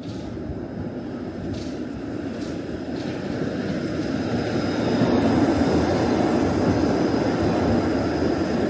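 Tram running along the rails, a steady rumble with a thin high whine above it, growing louder to a peak about halfway through.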